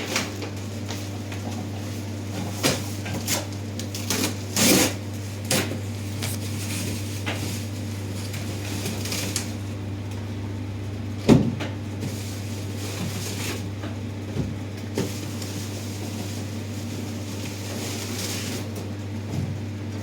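Scattered knocks and clatter of goods being handled and set down, with the loudest knocks about five and eleven seconds in, over a steady low hum.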